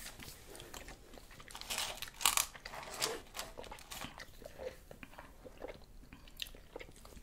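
Close-up eating sounds: chewing and soft crunching of fast food such as fries, with irregular mouth clicks.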